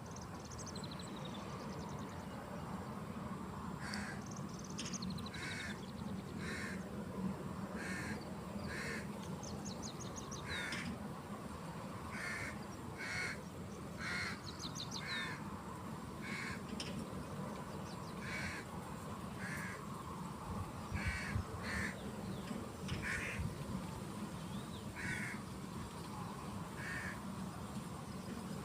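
Birds calling: a long series of short calls repeated about once a second, with a few high, quick twittering trills from another bird now and then, over a steady low background noise.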